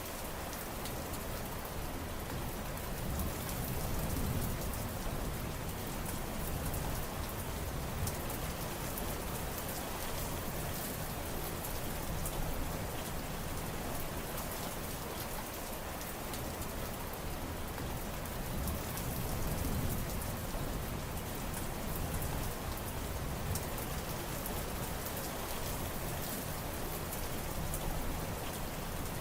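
Steady rain falling on surfaces: a dense, even patter of drops. The low end swells softly a couple of times.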